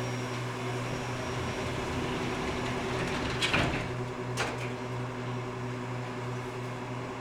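Otis Hovair air-cushion people mover running with a steady low hum, with two short knocks about three and a half and four and a half seconds in.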